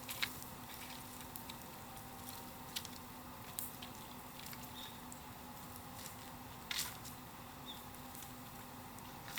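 Bonfire crackling: scattered sharp pops and snaps at irregular intervals, the loudest about seven seconds in, over a faint steady hum.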